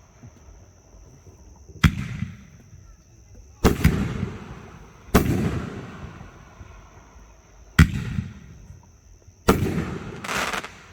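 Aerial fireworks shells bursting, about half a dozen loud booms a second or two apart, each trailing off in a rolling echo.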